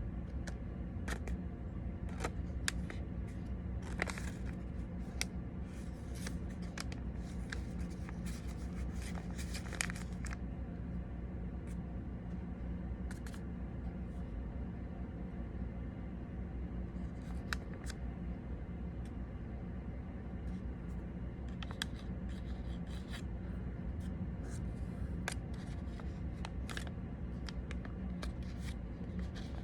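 Sheet of origami paper being handled and creased, in scattered crisp rustles and taps, busiest early on and again in the second half, over a steady low hum.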